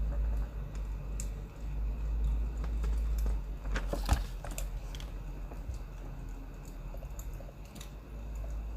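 Crackling of burning firewood: scattered irregular pops and clicks, with a louder burst of crackles about four seconds in, over a steady low rumble.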